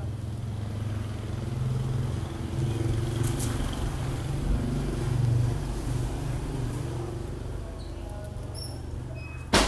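Electric fan running with a low, wavering hum, ending in one sharp click near the end.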